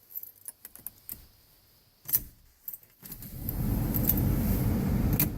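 Keys jangle in the ignition of a 1991 Ford F-150's 5.0-liter V8, with a sharp click about two seconds in. About three seconds in the engine is cranked and fires on a cold start, running loud for about two seconds. The level drops off sharply near the end.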